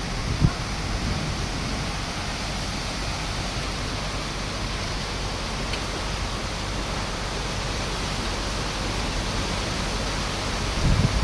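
Heavy rain falling steadily, a dense even hiss. There is a single brief low thump about half a second in.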